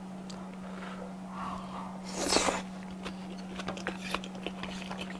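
Close-miked chewing of salmon nigiri topped with raw sliced onion and flying fish roe: wet mouth sounds and small crunching clicks, with one short louder burst of noise a little past two seconds in. A steady low hum runs underneath.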